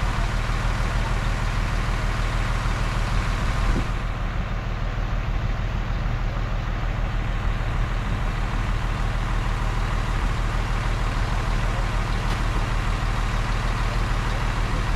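A heavy diesel engine running steadily at low speed.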